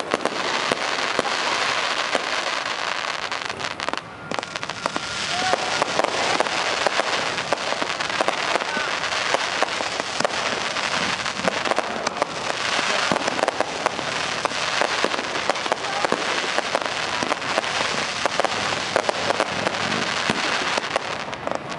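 Fireworks display: a dense, continuous crackle of many small pops and bangs from bursting shells and crackling stars, with a few short rising whistles and a brief lull about four seconds in.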